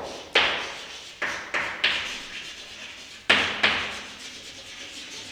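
A run of about six sharp knocks or taps at uneven intervals, two close pairs among them, each trailing off quickly.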